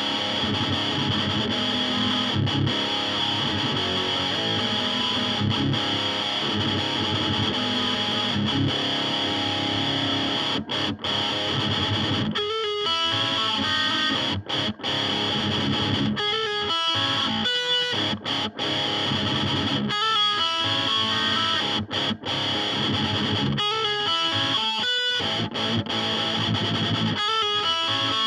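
Electric guitar playing an instrumental passage with some distortion, with several short breaks between phrases in the second half.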